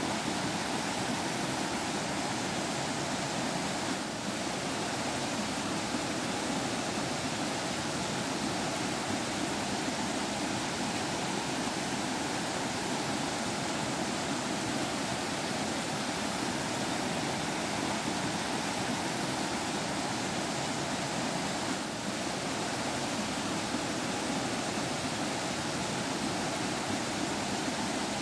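Water flowing in a stream, a steady, even rush with no pauses.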